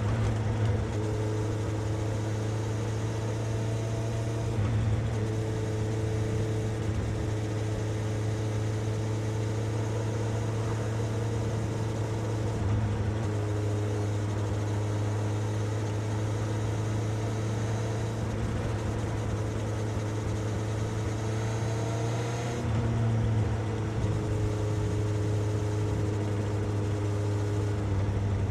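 Suzuki GSX-S750's inline-four engine and exhaust running on the move at a fairly steady speed. The engine note holds for several seconds at a time and changes briefly about four times, with one gradual rise near the end.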